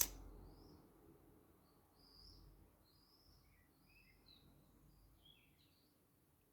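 Faint birdsong: a songbird's series of short chirps and warbled phrases over low background noise, with a sharp click at the very start.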